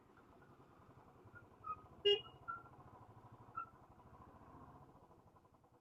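Royal Enfield Bullet motorcycle engine idling faintly, a quick, even low pulsing, with a few short high chirps over it.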